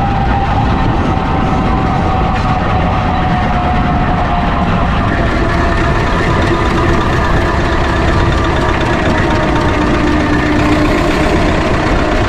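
A 6-inch-scale Foden C-Type steam wagon with a double-high twin-cylinder engine running along: a steady mechanical rumble. A faint whine slowly falls in pitch, and a second steady tone comes in about halfway and grows stronger near the end.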